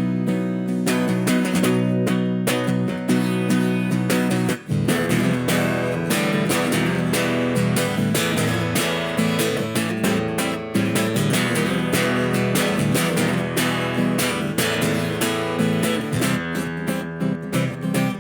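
Strummed acoustic guitar playing an instrumental passage of a song, growing fuller with lower notes joining about five seconds in.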